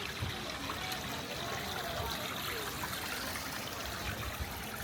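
Water trickling steadily, with faint voices in the background.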